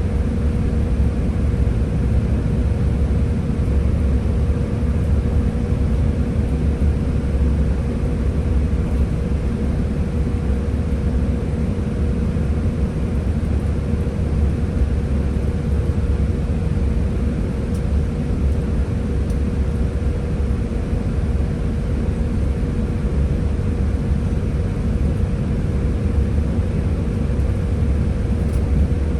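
Scania Higer A30 13-metre bus running steadily: a constant low drone of engine and road rumble, with a faint steady whine above it.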